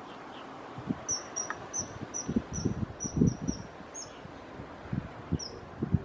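A small bird's thin, high chirps, each a short downward flick, repeated about three times a second for a few seconds, then twice more near the end. Irregular low thumps sound underneath, the loudest about halfway through.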